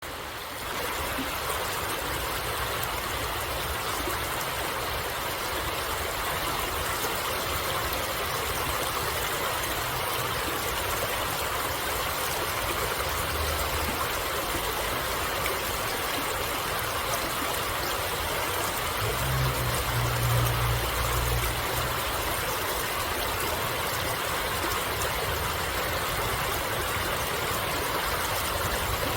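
Flowing stream water rushing steadily, with a brief low rumble about two-thirds of the way through.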